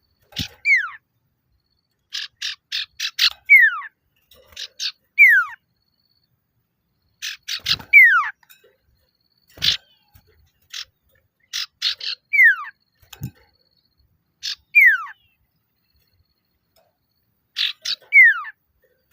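Male common iora (sirtu/cipoh) calling. It gives short bursts of quick, rapid notes that alternate with clear whistles sliding downward, repeated every second or two with brief pauses between.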